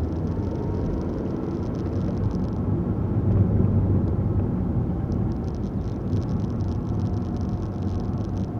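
Car being driven, with a steady low rumble of engine and road noise that swells slightly a few seconds in.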